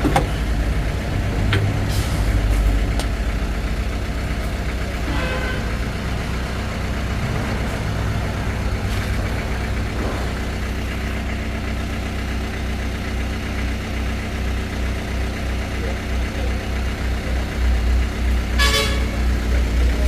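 A motor vehicle's engine idling steadily, with a few short clicks and knocks from work around it.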